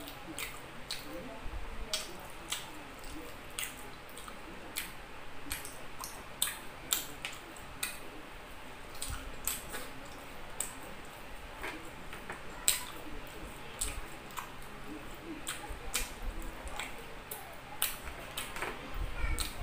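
Close-up eating sounds: chewing and many sharp, wet mouth clicks and lip smacks at an irregular pace, as chicken and rice are eaten by hand.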